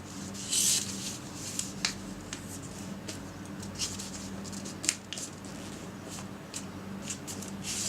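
Origami paper rustling and crackling in short, scattered bursts as it is folded and creased by hand; the loudest rustle comes about half a second in.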